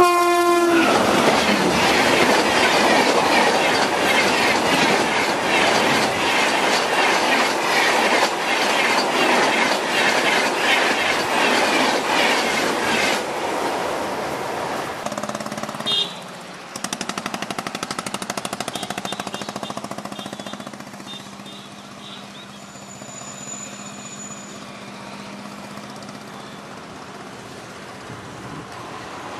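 Electric-hauled passenger trains passing: a WAP-5 locomotive and its coaches rush past close by, the wheels clattering rapidly over the rail joints, just after a horn cuts off at the very start. About halfway through the sound changes suddenly to a train's wheels clacking steadily as it moves away over a bridge, growing quieter toward the end.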